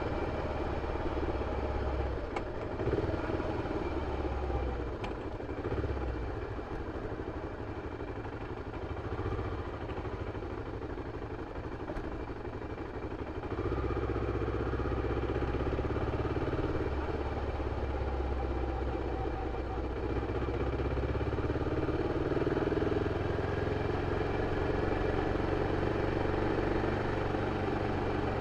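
BMW F 650 CS motorcycle's single-cylinder engine running through its original exhaust. It goes quieter for several seconds, then louder again about halfway through and holds steady.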